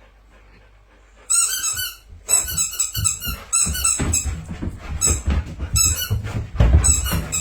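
Squeaky dog toy squeaked over and over as a dog chews it. After about a second of quiet the high-pitched squeaks come in a loose rapid series, with low chewing thumps under them.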